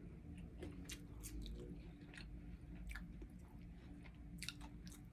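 Faint close-up chewing of food, with a few scattered soft mouth clicks.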